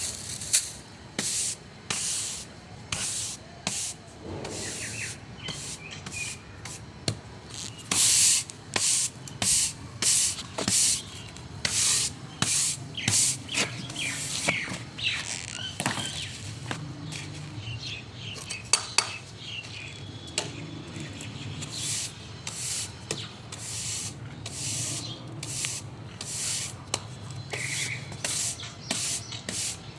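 A broom sweeping a hard floor in quick repeated swishing strokes, about one or two a second.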